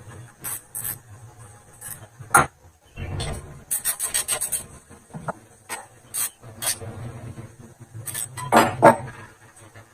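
Irregular scraping, rubbing and sharp clicks of hand work, over a low steady hum; the loudest is a longer scrape near the end.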